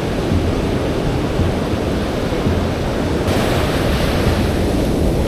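Surf washing on the beach under steady wind rumble on the microphone, with a brighter hiss coming in about three seconds in.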